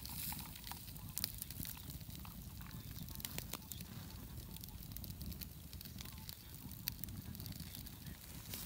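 Wood campfire crackling, with many scattered sharp pops.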